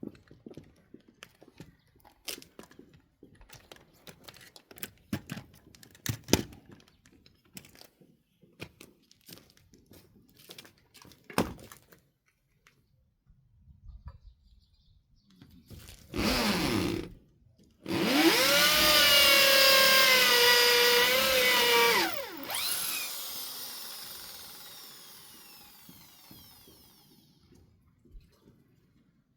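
Electric power tool run briefly, then started again and held for about four seconds with its pitch wavering, then released so the motor winds down and fades over several seconds. Before that, scattered knocks and clicks of handling boards.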